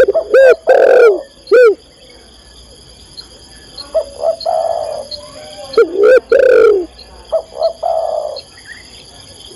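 Spotted dove (tekukur) cooing: a call of the female meant to draw a male. It gives two series of arched, hollow coo notes, the first in the opening second and a half and the second from about four seconds in.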